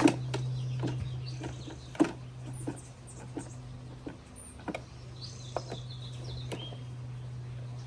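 Small birds chirping in short calls, over a steady low hum, with scattered sharp clicks and knocks, the loudest right at the start and about two seconds in.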